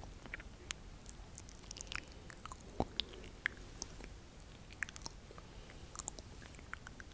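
Close-miked ASMR mouth sounds: irregular soft wet clicks and smacks, a few each second.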